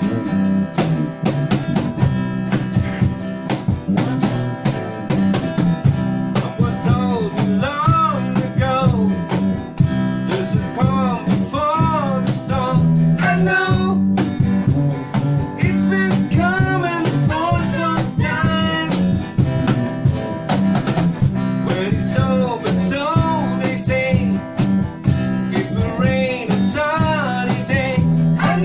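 A band playing a steady rock song with guitars, bass and drums. About six seconds in, a melody line enters that bends up and down in pitch over the band.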